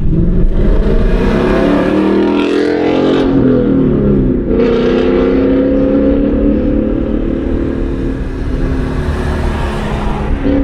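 Car engine accelerating. Its pitch rises over the first few seconds, drops at a gear change about four seconds in, then climbs again.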